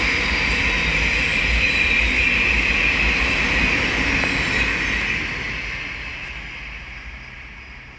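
Thameslink Class 700 electric multiple unit passing: a steady rush of wheels on rail with a high whine running through it, fading away over the last three seconds as the train recedes.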